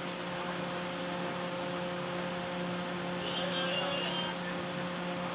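Steady low mechanical hum, with a faint high chirping for about a second near the middle.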